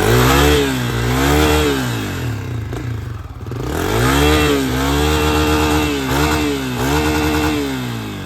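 Dirt bike engine revved hard over and over, its pitch climbing and falling about six times, with a short drop in revs about three seconds in.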